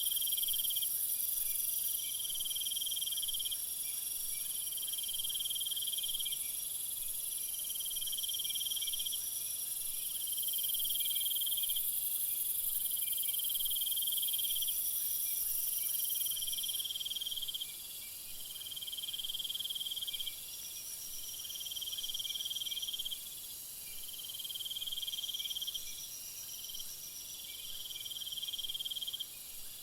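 Insects trilling in a steady chorus: a trill of a second or so repeats about every two seconds, another higher one alternates with it, and a constant high hiss sits underneath.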